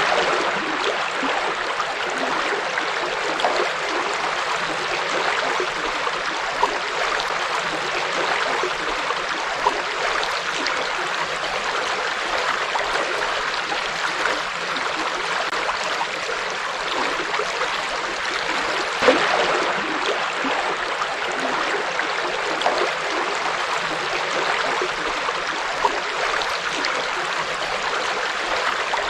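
River water flowing and rippling steadily over stones, a constant rushing with small splashes and gurgles now and then.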